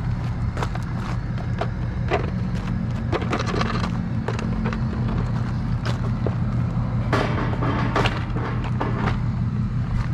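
Tow truck engine running steadily, with scattered clanks and knocks of metal and equipment.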